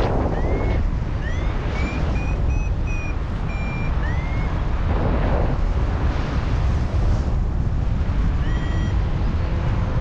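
Strong wind buffeting the microphone in flight, with a paragliding variometer beeping: a run of short chirps that curve up in pitch and a few steady beeps in the first four seconds, and one more beep near the end. The beeping is the variometer signalling a climb in ridge lift.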